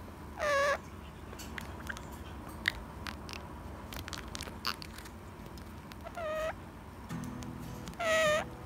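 Indian ringneck parakeet giving three short, shrill calls, about a second in, about six seconds in and near the end, with a few light sharp clicks in between.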